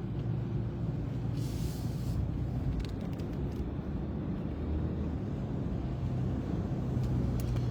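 Car cabin noise while driving slowly: a steady low rumble of engine and tyres, with a short hiss about a second and a half in.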